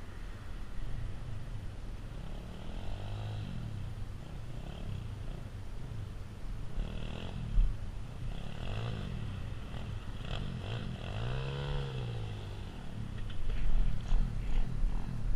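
A 190 cc Zongshen single-cylinder pit bike engine revving up and down several times, its pitch rising and falling with the throttle. It gets louder with a heavy low rumble near the end.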